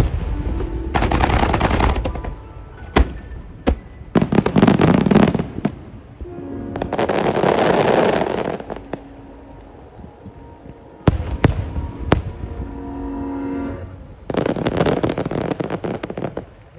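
Aerial firework shells bursting with several sharp single bangs and five dense spells of crackling, over music played for the display.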